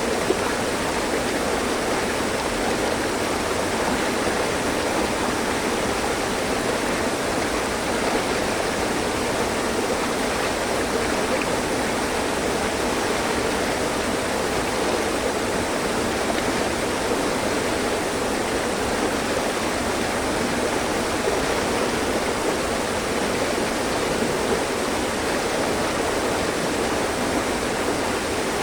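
Mountain stream: water running and splashing over rocks in a steady, even rush.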